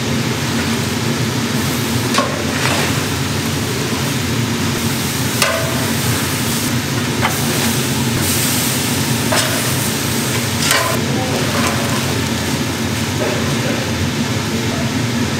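Food sizzling as it is stir-fried in a large pan, with a few sharp clanks of a metal utensil against the pan.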